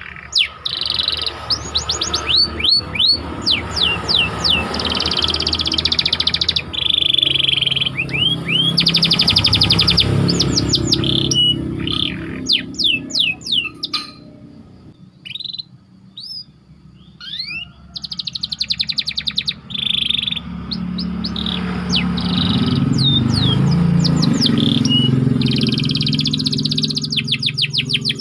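Domestic canary singing tight rolling trills and quick runs of downward-sweeping chirps, with a brief quieter pause about halfway through.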